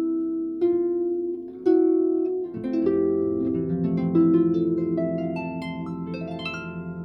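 Harp music: single plucked notes ringing on, then a quicker rising run of notes from about halfway that fades out near the end.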